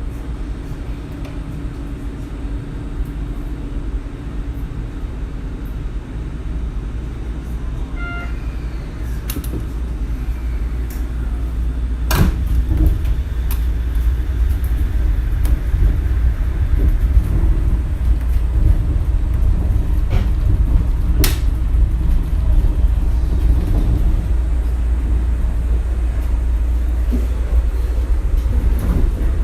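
Running noise of a Shonan Monorail suspended, rubber-tyred monorail car heard from inside the car: a heavy low rumble that grows louder over the first dozen seconds as the car gets under way, then holds steady, with two sharp knocks, a little after a third of the way in and again past two thirds.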